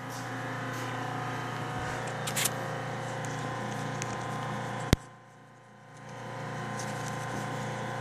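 Steady mechanical hum with a sharp click about five seconds in; the hum drops away briefly after the click and then returns.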